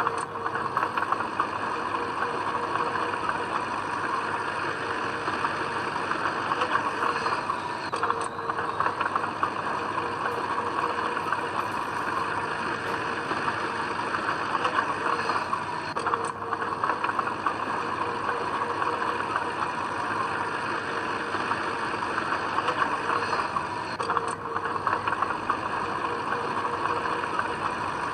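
Diesel engine of heavy earthmoving machinery running steadily, with a faint pattern in the noise that repeats about every eight seconds.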